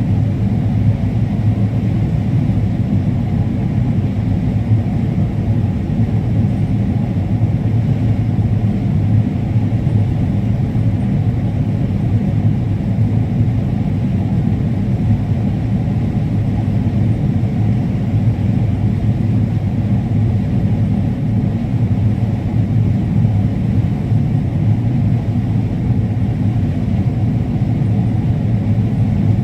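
Combine harvester running steadily under load: a loud, even low engine drone that holds unchanged throughout.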